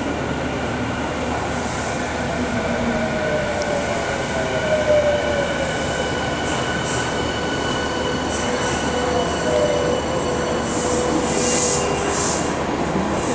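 Yokohama Minatomirai Railway Y500 series electric train moving along the platform. The rumble of its wheels runs on under a motor whine that glides down in pitch and levels off. Short hissing squeals come near the end.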